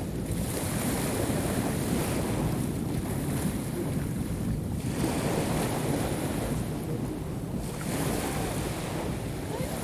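Sea waves breaking and washing up the shore, the hiss of each wash swelling and fading about three times, with wind rumbling on the microphone.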